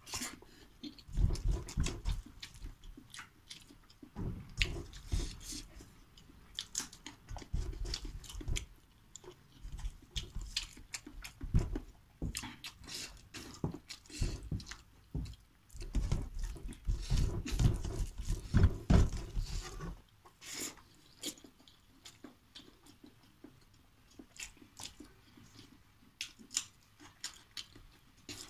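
Close-miked chewing of a man eating rice and tinned sardines by hand, with many wet mouth clicks. Low, dull bumps come with it for most of the time, and only lighter clicks remain near the end.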